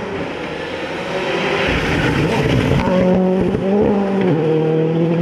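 Rally car approaching at speed and getting louder, with a rushing noise from the car about a second or two in. Its engine then holds steady revs and drops in pitch a little after four seconds in.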